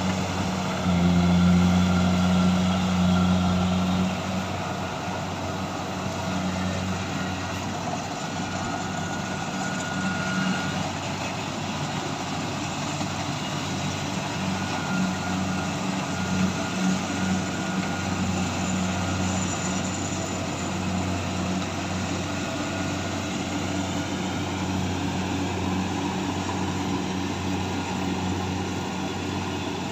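Kubota combine harvester's engine running steadily under harvesting work, a little louder for the first four seconds and then settling to an even level.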